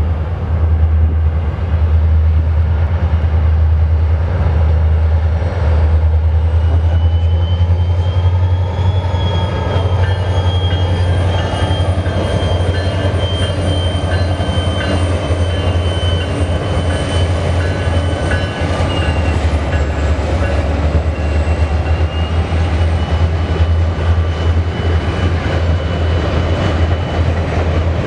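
BNSF train rolling past with a steady heavy rumble and wheels clicking over the rail joints. A thin, high wheel squeal joins in about six seconds in and carries on.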